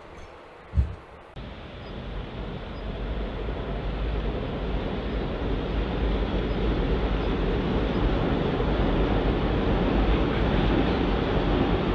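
A brief low thump about a second in, then a steady running noise, heaviest in the low end, that grows gradually louder over several seconds: a Seibu Railway electric train approaching.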